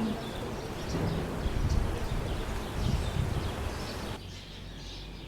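Outdoor background noise with an uneven low rumble and a few faint bird chirps. It drops abruptly to a quieter, steady hush about four seconds in.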